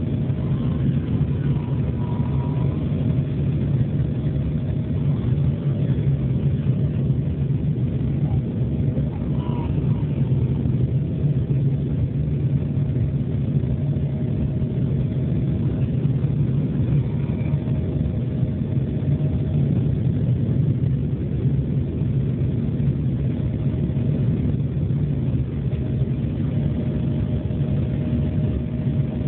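Steady rumble of an Embraer E175 airliner's General Electric CF34 turbofan engines and airflow in flight, a constant low drone with a faint steady hum above it.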